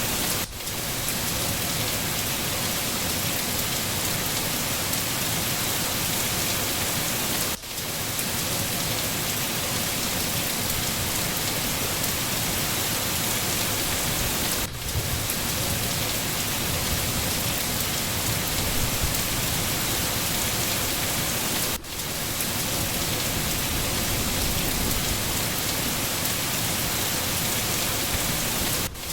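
Steady rain falling, an even hiss, with a brief dip in level about every seven seconds.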